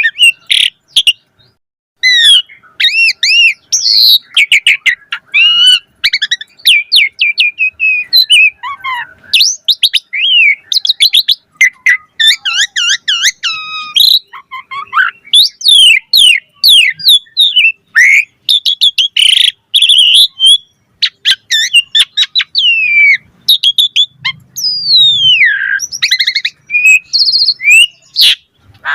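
Asian pied starling (jalak suren) singing loudly and almost without a break: a long, varied run of whistles, rising and falling glides, chatters and rapid trills, the full 'isian' song of a bird in top singing form.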